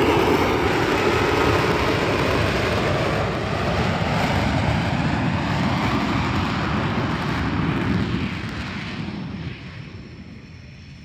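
Lockheed Martin F-35B fighter jet engine, loud and steady for about eight seconds, then fading away over the last few seconds as the jet moves off.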